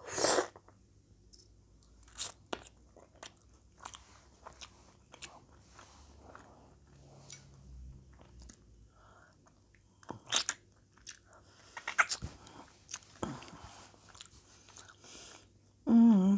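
Close-up mouth sounds of someone eating nachos: chewing with scattered crunches of tortilla chips and wet lip smacks, the loudest a smack from licking sauce off the fingers right at the start. A voice comes in near the end.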